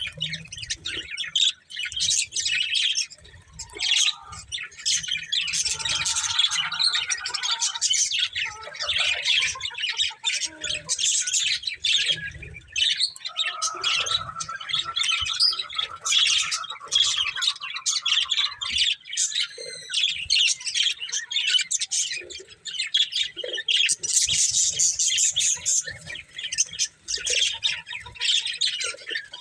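A pair of budgerigars chirping and chattering nonstop: a dense stream of quick, high chirps, with a lower warbling call coming in now and then, most clearly in the middle of the stretch.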